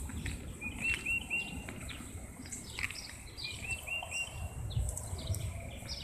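Birds chirping: a quick run of three or four short rising notes, heard twice, among other scattered high chirps, over an uneven low rumble.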